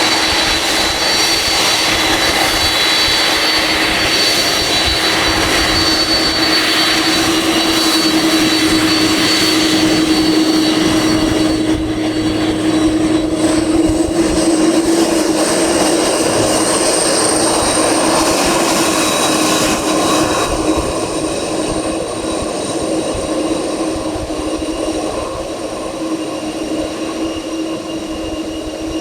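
Boeing 747's four jet engines running as the airliner taxis: a loud, steady engine noise with a high whine. The whine rises slightly about two-thirds of the way through, and the noise then eases a little.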